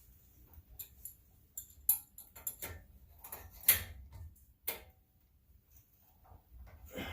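Hand tools clicking and clinking against metal during work on a car's front brake and wheel hub: an irregular run of sharp clicks from about a second and a half in, the loudest just before the middle, then a pause and one more click near the end.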